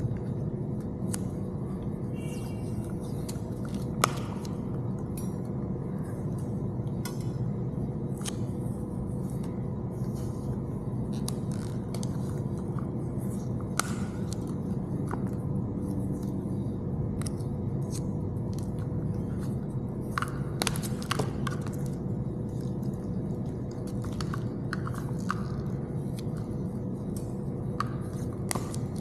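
Small clicks and rustles of a radio wiring harness and electrical tape being handled and taped off, over a steady background hum.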